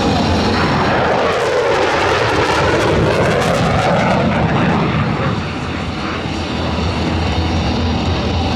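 McDonnell Douglas F-15 twin-engine jet fighter making a loud pass, its jet noise sweeping in pitch as it goes by, then easing off a little about halfway through.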